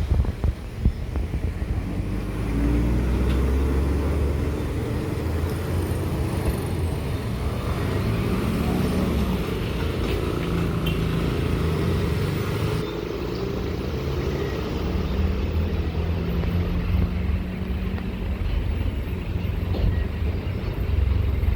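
Heavy diesel trucks driving past, a deep rumble with a steady engine drone, and a few knocks in the first second.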